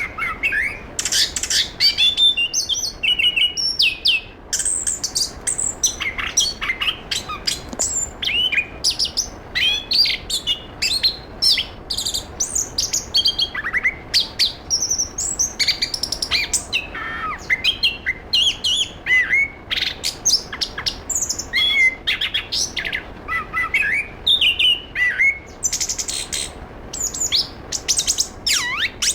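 Chestnut-capped thrush (anis kembang) singing without pause: a rapid, varied stream of short whistled and chirping notes with quick rising and falling slides.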